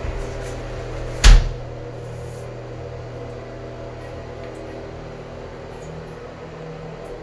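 A steady machine hum with one loud, sharp knock about a second in.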